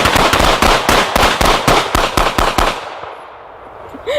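A rifle firing a rapid string of about twenty shots, roughly seven a second, each a sharp crack. The shots stop about 2.7 s in and the echo fades away.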